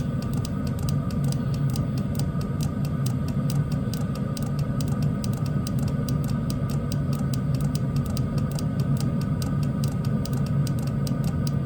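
Chinese diesel heater running on low: a steady hum from the burner and combustion fan, with rapid, regular ticking from the fuel dosing pump, several ticks a second, as the add-on module pulses it.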